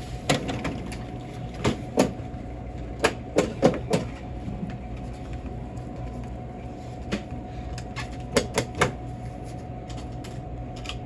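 Scattered sharp clicks and knocks of objects being handled, in groups of two or three, over a steady electrical hum.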